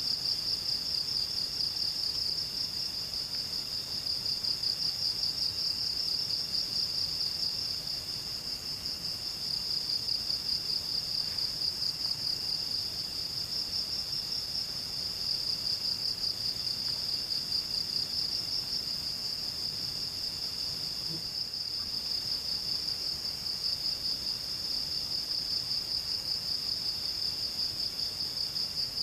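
Insects trilling steadily in a high-pitched, rapidly pulsing drone, with a second, fainter insect call that comes and goes in spells of a second or two.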